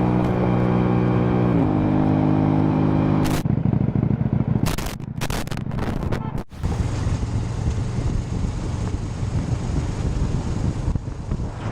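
Motorcycle engine running at steady revs, its pitch stepping down once. It then gives way to a rumble of wind and road noise broken by a few sharp clicks.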